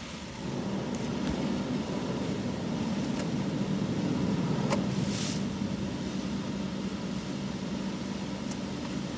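Automatic car wash machinery running, heard from inside the car: a steady low rumble and hum, with a few faint clicks and a brief hiss about five seconds in.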